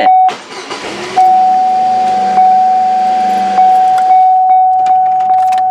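A 2000 Chevrolet Cavalier's starter cranking and the engine catching about half a second in, then running, with the car's warning chime repeating about twice a second as the loudest sound throughout. The engine now cranks and starts, a sign the starter relay's missing ground has been restored.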